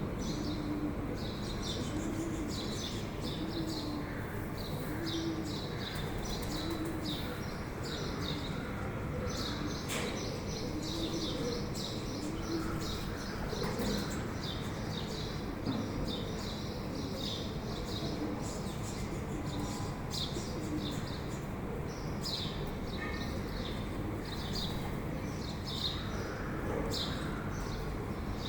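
Birds chirping in quick, repeated high notes, with a dove's low cooing recurring through the first half, over a steady background hiss.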